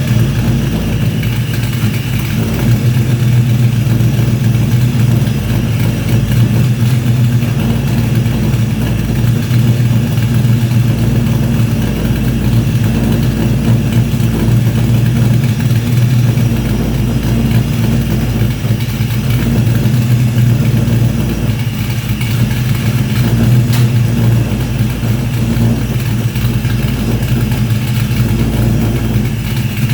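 Engine running steadily at idle on its first start-up, a loud, even low drone with no big revs.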